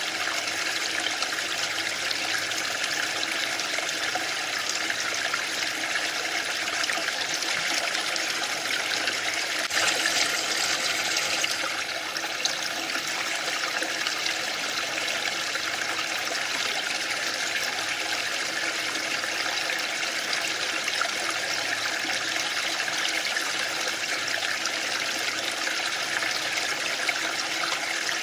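Waterfall: falling water making a steady, even noise, briefly louder and brighter for about two seconds around ten seconds in.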